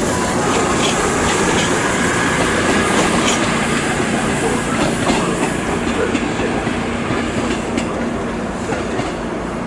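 A diesel train running at a station platform: a steady engine rumble with a few irregular clicks of wheels over rail joints.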